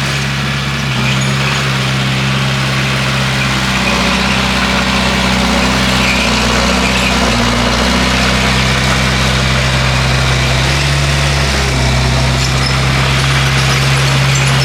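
Bulldozer's diesel engine running steadily, its pitch dipping and rising a little several times as the load changes.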